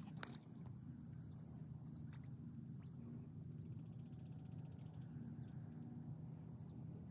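Faint outdoor ambience: small birds giving short high chirps and a couple of quick buzzing trills over a steady low hum, with a single sharp click just after the start.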